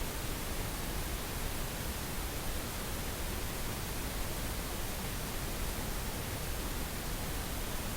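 Steady synthetic pink noise for sleep therapy: an even, unbroken hiss at a constant level.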